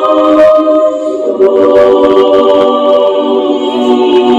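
Loud played-back music clip of layered, held, choir-like tones forming a chord that changes notes about a second in, with scattered clicks over it.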